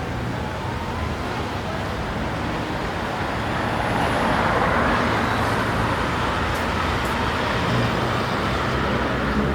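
City street traffic: a steady rumble of passing cars, swelling about four seconds in as a vehicle passes close.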